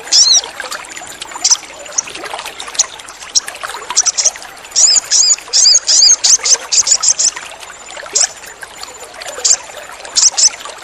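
Sogon (little spiderhunter) giving sharp, high chirps, some single and some in quick runs of several notes, as a call to draw other sogon birds into song. A steady trickle of running water runs beneath the calls.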